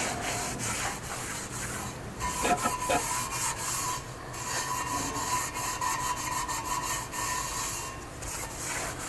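A rag rubbing and wiping over the outer surface of a cast refractory furnace lid in uneven scrubbing strokes, with a faint steady squeak-like tone through the middle.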